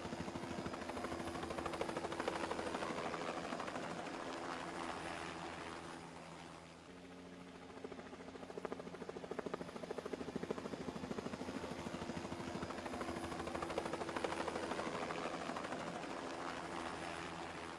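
Police helicopter's rotor beating steadily overhead, growing louder and fading away twice as it circles.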